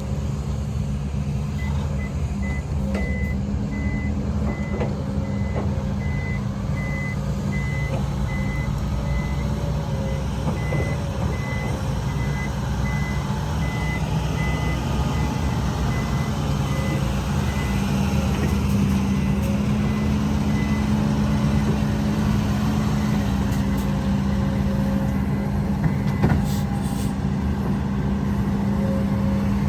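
Heavy diesel truck engine running steadily while its reversing alarm beeps at a high pitch, the beeping stopping about two-thirds of the way through. There is a short knock near the end.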